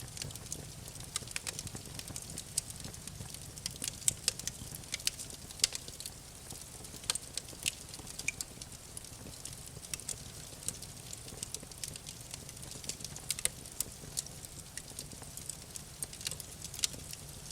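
Wood fire crackling in a fireplace: irregular sharp pops and snaps, a few louder than the rest, over a soft steady low rumble.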